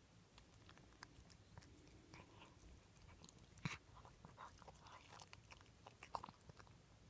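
A pet chewing and crunching food, a string of faint, irregular crunches and clicks; the sharpest crunches come about three and a half seconds in and again near six seconds.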